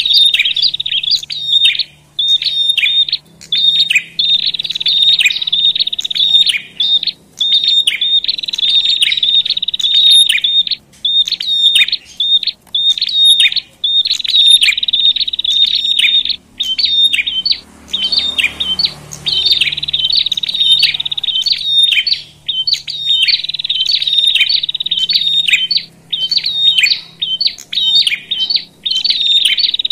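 Small prenjak warblers chattering noisily in fast, sharp chips and trills, almost without pause: an agitated 'ribut' lure recording meant to rile up other prenjak.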